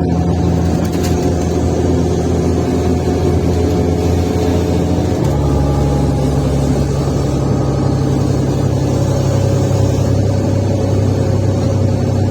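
Diesel engine of a Mercedes-Benz Citaro C1 Ü bus running under way, heard loud from on board through a broken exhaust. The engine note steps down once about five seconds in.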